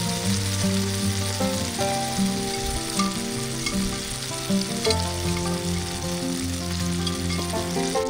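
Hamburger patties frying in a cast-iron skillet: a steady sizzle with occasional sharp pops of fat. Background music plays throughout.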